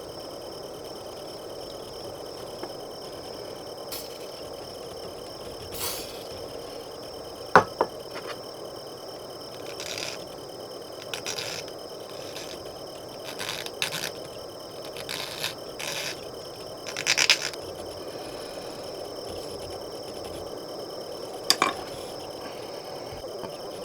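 A steady chorus of chirping crickets and other insects, with scattered clicks, clinks and short scrapes of hand tools working small plastic model parts; the sharpest click comes about a third of the way in.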